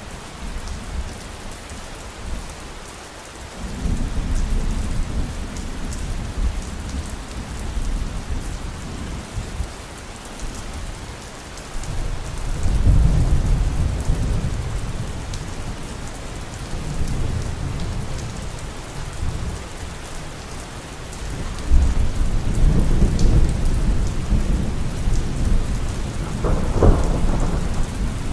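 Steady heavy rain with rolling thunder: deep rumbles swell about 4 s in, around 12 s and again past 21 s, and a sharper thunderclap comes near the end.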